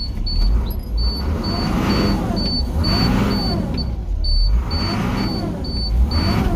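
School bus diesel engine running just after a cold start, its speed surging up and down about once a second instead of settling to an even idle. A high beeper sounds about twice a second over it.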